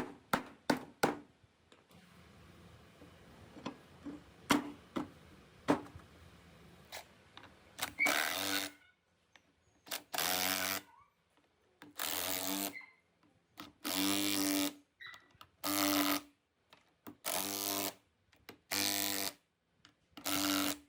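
A series of light clicks and knocks, then a small electric power tool running in eight short trigger bursts of under a second each, holding a steady pitch and stopping sharply each time.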